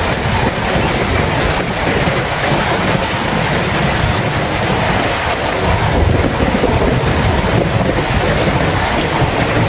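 Heavy rain falling steadily, with a low rumble underneath that swells and fades every few seconds.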